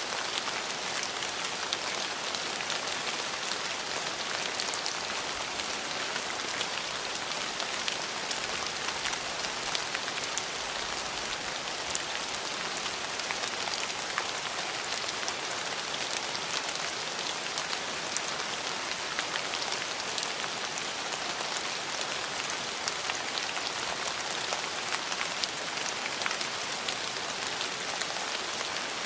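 Steady rain falling on surfaces: an even hiss thick with small drop ticks, with no thunder and no let-up.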